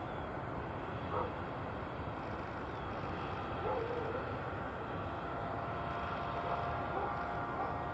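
Distant jet aircraft engines running steadily, with a faint whine joining in from about five seconds in.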